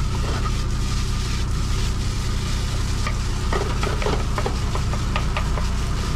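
Food sizzling on a griddle, stirred and scraped with a metal utensil, the clicks and scrapes coming thick in the second half. A steady low machine hum runs underneath.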